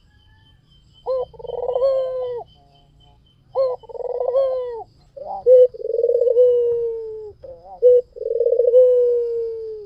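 White domestic turtle dove (puter putih, the albino Barbary dove) cooing: a run of about five long, rolling coos, each a low note sliding gently downward. The later coos come closer together, with short clipped notes between them.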